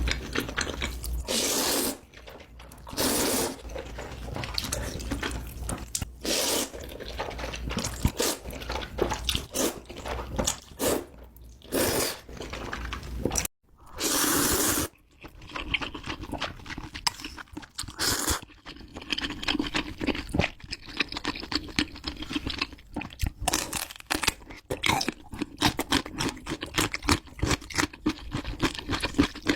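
Buldak ramen noodles being slurped in several loud, noisy pulls of about a second each, with wet chewing and lip smacks in between. In the second half it turns mostly to fast, steady chewing and smacking.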